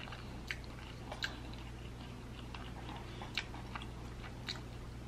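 A person chewing a mouthful of soft crab-stuffed salmon with the mouth closed, with scattered small wet mouth clicks.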